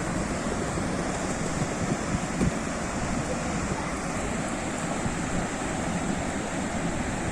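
Sea surf: a steady wash of waves, with wind rumbling on the microphone.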